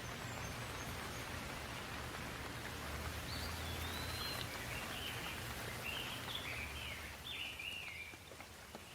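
Steady rain falling, an even hiss with a low rumble beneath it. A bird sings short warbling phrases over it from about three seconds in, and the rain eases near the end.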